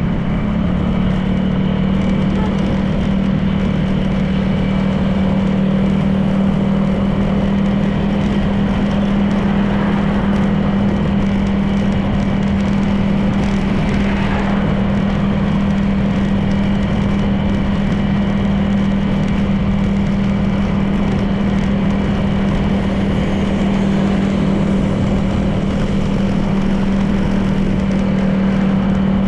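Honda PCX 160 scooter's single-cylinder engine running at a steady cruise, with road and wind noise; a short sound swells and fades about halfway through.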